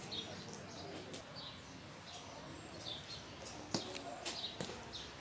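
Small birds chirping: short high chirps repeated every second or so over a steady background hum. Two sharp clicks come near the end.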